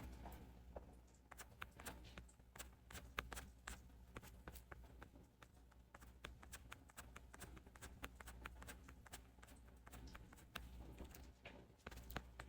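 Near silence: faint, irregular small clicks over a low steady hum.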